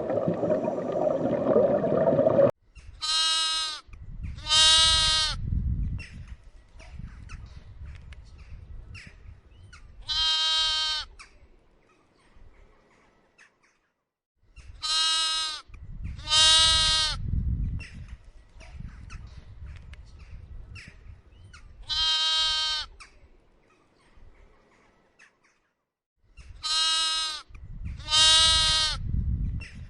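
Livestock bleating: short, quavering cries about half a second long, mostly in pairs, repeated every few seconds with a low rumble beneath. The bleating starts just after a rushing, noisy sound cuts off abruptly about two and a half seconds in.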